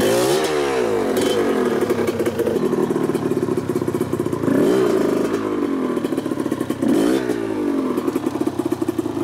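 Dirt bike engine idling, with three short throttle blips that rise and fall back.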